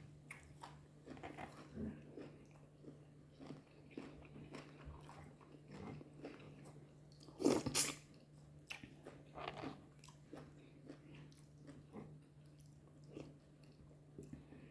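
Close-miked eating sounds: soft, wet chewing and biting of fufu and goat meat in light soup, with scattered small mouth clicks and one louder mouth noise about halfway through. A steady faint low hum sits underneath.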